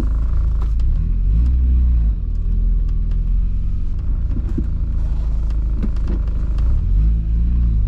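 Swapped-in VW 1.8T turbocharged four-cylinder engine pulling a Mk3 Golf/Jetta under way, its pitch rising and then dropping twice as it revs up and shifts.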